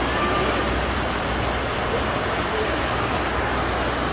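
Crowded beach ambience: a steady wash of noise with faint distant voices of many people.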